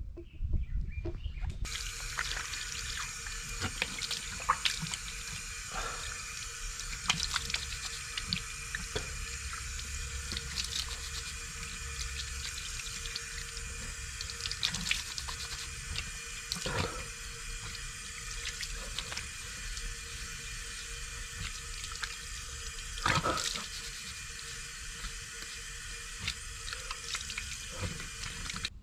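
Running water, a steady splashing hiss with scattered drips and clicks through it.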